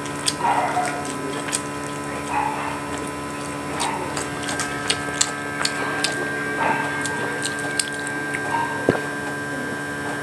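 Close-miked eating sounds: wet chewing, lip smacks and soft mouth clicks while eating grilled fish by hand, over a steady electrical hum. A faint high steady tone joins about four seconds in.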